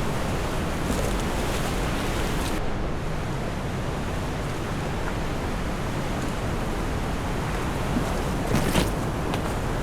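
Steady rushing noise of wind and ocean surf, with a few faint clicks about three-quarters of the way through.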